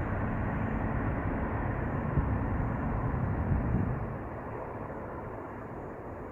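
Antonov An-124's four Progress D-18T turbofan engines giving a steady deep rumble as the departing aircraft recedes. About four seconds in, the sound drops noticeably and the lowest rumble fades away.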